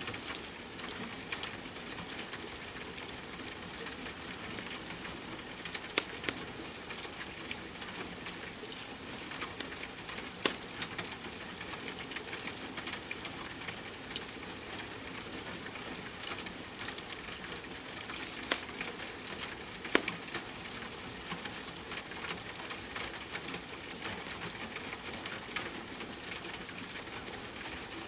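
Steady rain hiss under a crackling wood fire, with scattered sharp pops, a handful of them standing out louder.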